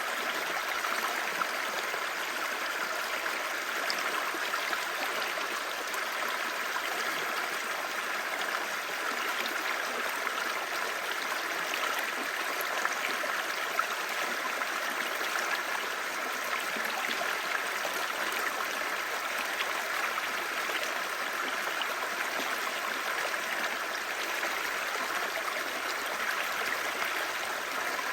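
Clear stream babbling over rocks: a steady, even rush of flowing water with a bright, splashy character.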